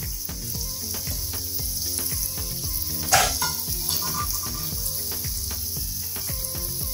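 Minced meat sizzling and crackling steadily in a frying pan, with a wooden spatula stirring through it at first. About three seconds in comes a single metal clank with a brief ring as the aluminium lid is lifted off the pot of boiled potatoes.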